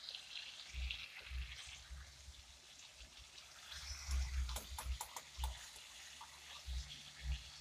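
Pork chop frying in oil in a pan, a faint sizzle, with irregular low bumps and a few sharp clicks about four to five seconds in.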